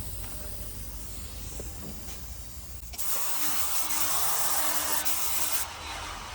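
Paint spray gun hissing as it sprays paint onto the car panel. The hiss starts suddenly about three seconds in, is loud for a couple of seconds, then drops to a softer hiss. A low steady hum runs under the first part.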